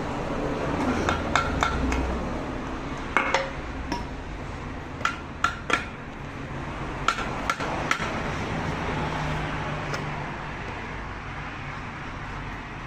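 Light metallic clinks and taps, about a dozen in small irregular groups, as small metal car parts and tools are handled during cleaning, over a steady low hum.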